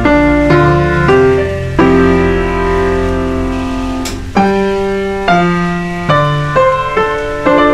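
Background piano music: sustained chords struck one after another, a new chord roughly every half second to second.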